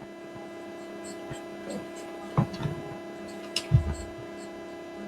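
A steady hum, with a few short knocks or thumps about halfway through.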